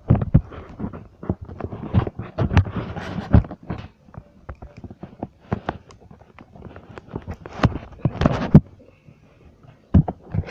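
Handling noise: irregular clicks and knocks of things being moved about and bumped, with a brief quiet spell about two-thirds of the way through.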